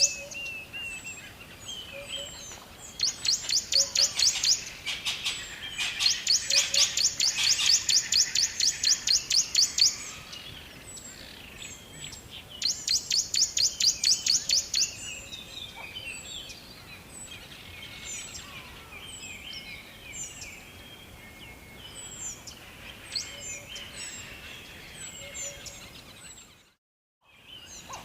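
Several birds chirping: a high, rapid pulsing call repeated about five times a second comes in bursts of a few seconds, with many short high chirps between. The sound cuts out for about a second near the end.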